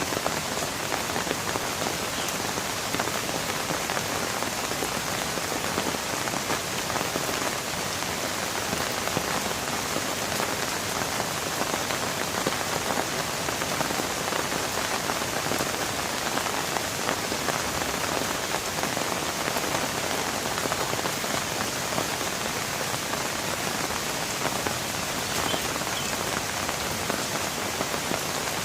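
Steady rain falling without letup, a dense even hiss of many small drop impacts.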